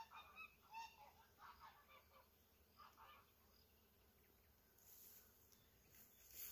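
Faint bird calls: several short calls in the first three seconds, then a few faint clicks near the end.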